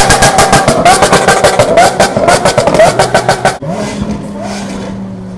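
Supercar engine being free-revved hard, with a rapid string of loud exhaust crackles and pops. About three and a half seconds in, the crackling stops and a quieter, steadier engine note takes over.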